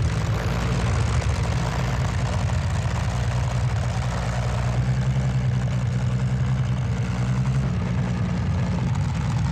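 Heavy pulling-tractor engine running steadily, a loud deep drone with a slight change in pitch near the end.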